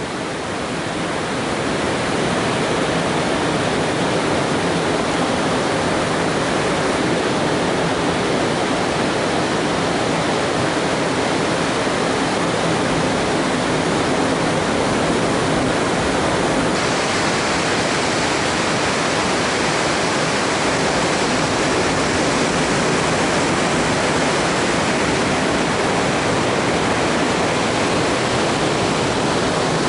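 Steady, unbroken roar of a big ocean surf breaking along the shore, turning a little hissier about halfway through.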